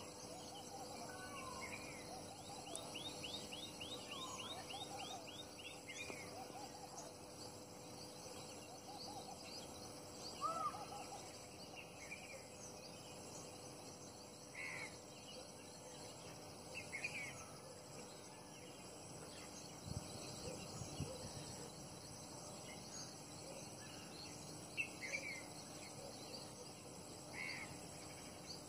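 Small birds calling: scattered short chirps and whistled notes, with a quick run of rising ticks in the first few seconds, over a faint steady hiss and hum.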